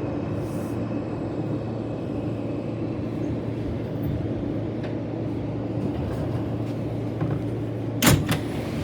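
Steady low hum and rumble of an E train subway car. A single sharp bang comes about eight seconds in.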